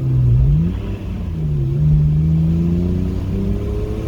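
Car engine heard from on board on a race track, accelerating under load: the pitch climbs, falls back just before a second in, then climbs again and holds fairly steady.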